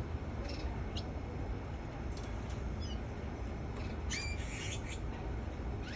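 Domestic canary giving short, scattered chirps, with a brief run of notes about four seconds in, over a steady low background rumble.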